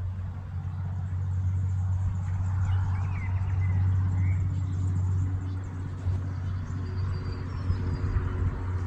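Steady low rumble, with a few short bird chirps a few seconds in.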